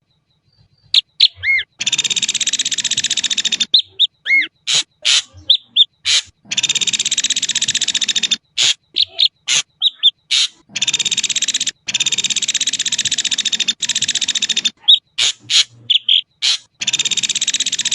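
Ashy drongo singing: long harsh, buzzy phrases of about two seconds each, repeated about five times, with short clear whistles and clicks in between.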